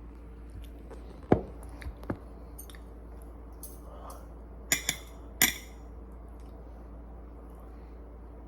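A few short, sharp clicks and clinks over a low steady hum: one firm knock about a second in, two lighter ticks just after, then three bright clinks near the middle.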